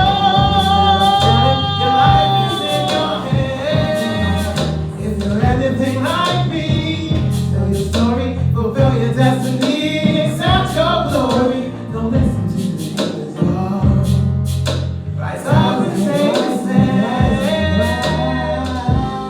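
Live neo-soul music: a woman singing with instrumental backing.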